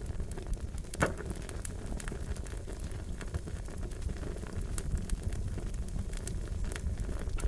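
Wood fire crackling: a steady low rumble of flames with irregular sharp pops and snaps, one louder pop about a second in.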